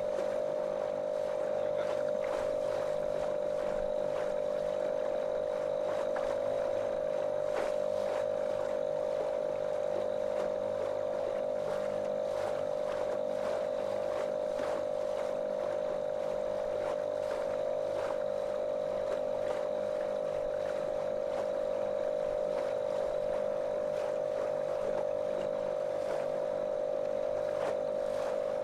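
Small motorboat's engine running at a steady, unchanging pitch, a monotonous drone, over the rush of water along the hull.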